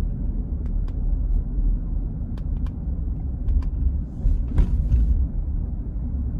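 Steady low rumble of a vehicle driving on the road, heard from inside the cab, with a few light clicks or rattles scattered through it.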